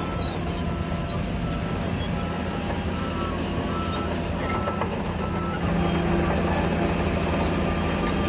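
Heavy diesel earthmoving machinery running steadily, with a backup alarm beeping about once a second. About two-thirds of the way in the beeps stop and the engine gets louder.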